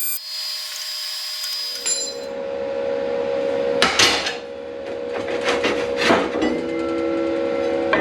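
A steady machine whine cuts off at the start, then several knocks and clatter of the aluminum workpiece being struck and handled over a steady hum.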